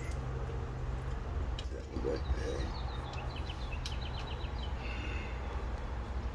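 Ratchet wrench clicking in a quick, even run for about a second and a half, starting a coil-pack bolt, over a steady low hum.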